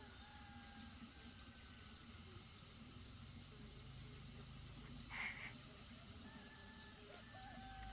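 Faint insects: a steady high buzz with a regular chirping pulse about three times a second. A short noise about five seconds in.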